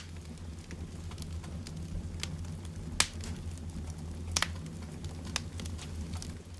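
Wood fire in a fireplace crackling, with scattered sharp pops over a low steady rumble; the loudest pop comes about three seconds in.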